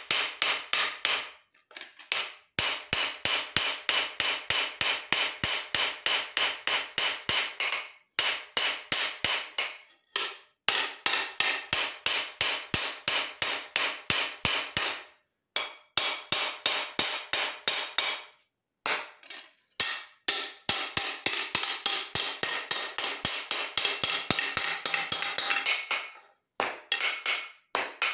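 Hand hammer striking leaf-spring steel on an anvil during forging, about three blows a second in runs of several seconds with short pauses between them. Each blow rings.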